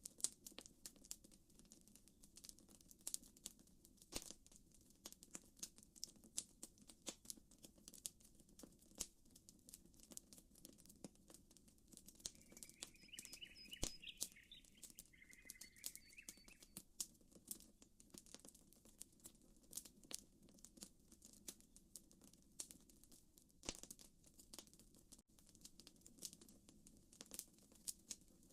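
Campfire crackling quietly, with irregular sharp pops over a soft, steady low wash of water. About halfway through, a bird calls in two short chirping phrases.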